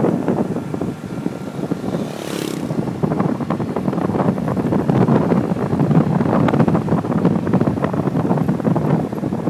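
Motorbike riding, with rough wind buffeting the microphone over the bike's running noise; a brief hiss passes about two seconds in.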